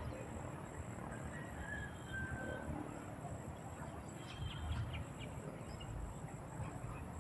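Birds calling: a few short chirps and thin whistles over steady low background noise.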